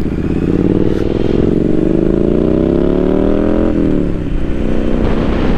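Triumph Street Scrambler 900 parallel-twin engine accelerating, its pitch climbing steadily for about three and a half seconds, then dropping sharply as the throttle comes off or it shifts up, and running lower near the end.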